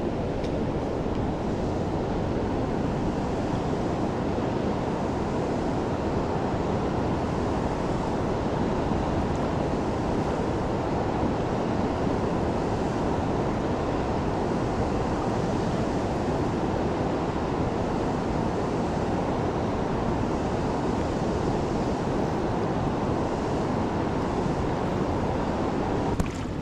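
Fast, high creek floodwater rushing past in a steady, unbroken wash.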